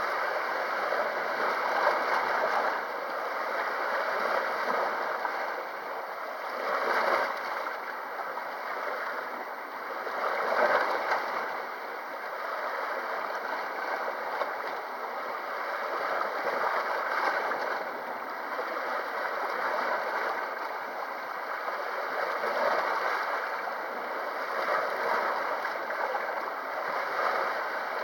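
Small sea waves washing against the shore, the wash swelling and easing every few seconds, with stronger surges about seven and ten seconds in.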